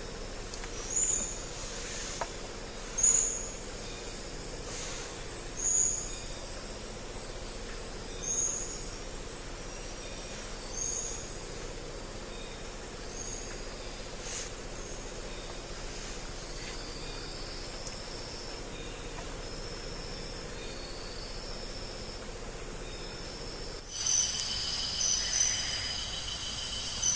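Night rainforest ambience: a steady dense insect hiss with a short high call repeating about every two and a half seconds from an unseen night animal. Near the end the sound cuts abruptly to a different bed of steady high tones.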